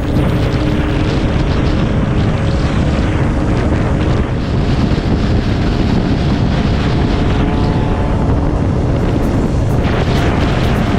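Motorcycle engine running while riding, under heavy wind noise on the microphone.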